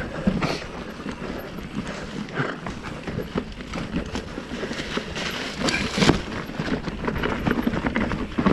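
A 2019 Commencal Meta Trail 29 mountain bike clattering down a rough, rocky trail: tyres knocking over rocks and the chain and frame rattling in a fast, uneven stream of knocks, with one harder hit about six seconds in.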